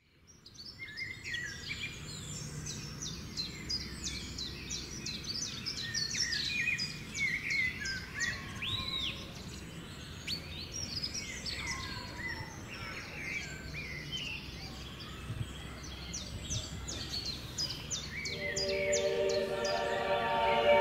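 Several songbirds singing and calling together, a busy mix of quick chirps and trills over a faint steady background hum. Near the end, music fades in with held notes.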